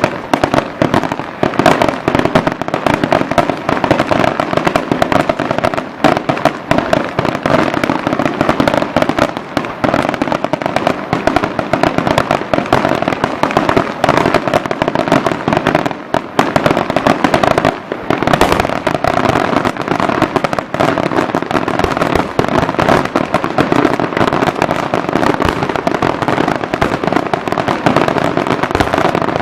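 Fireworks going off in a dense, continuous barrage: rapid bangs and crackles so close together that they merge into one unbroken din.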